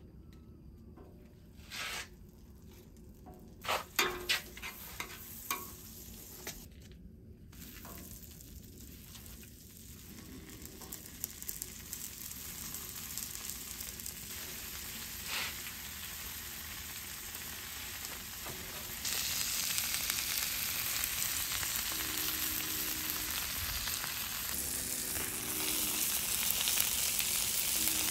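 Curly dock stems sizzling in butter on a hot flat-top griddle, with a few knocks in the first few seconds as they are laid down. The sizzling builds and gets clearly louder about two-thirds of the way through.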